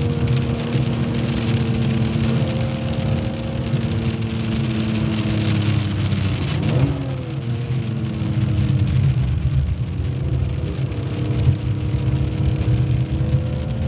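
Car engine running steadily at moderate revs, heard from inside the cabin, with a hiss of water from the wet track. About halfway the hiss drops away and the engine note dips briefly, then rises again near the end as the car speeds up.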